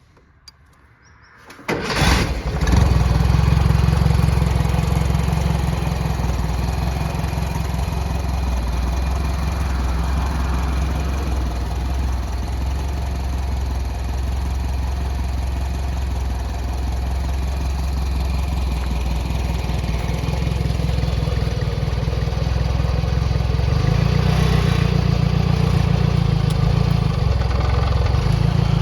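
Simca engine of a Pony vineyard tractor starting about two seconds in, catching at once and then running steadily, a little louder over the last few seconds.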